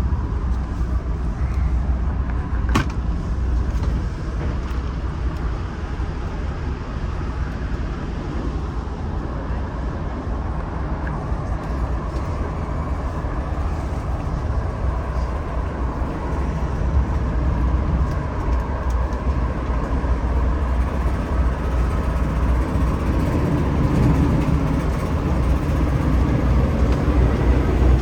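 Steady rumble of a moving train heard inside a Bombardier LRC passenger coach: wheels on the rails and the car body running, with one sharp click about three seconds in. The rumble grows a little louder near the end.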